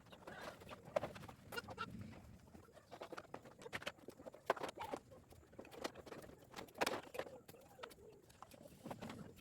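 Farmyard birds calling softly, with scattered sharp clicks and knocks.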